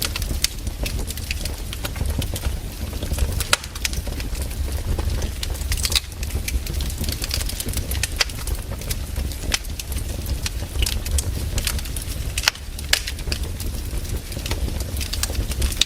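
Wood fire in a fireplace crackling, with irregular sharp pops and snaps over the low, steady noise of the flames.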